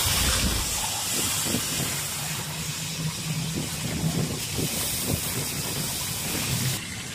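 Red tacos, dipped in salsa, frying in oil on a flat round griddle: a steady sizzle with light scrapes and taps of a metal spatula. The sizzle thins out near the end.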